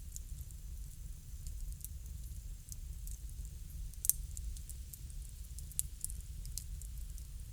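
Wood fire crackling: irregular small pops and snaps over a low steady rumble, with one sharper pop about four seconds in.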